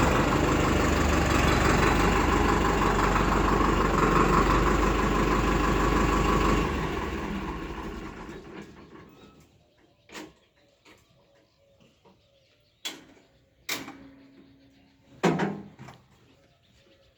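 Diesel tractor engine running steadily, then dying away over about two seconds, starting nearly seven seconds in. In the quiet that follows come a few short, sharp sounds.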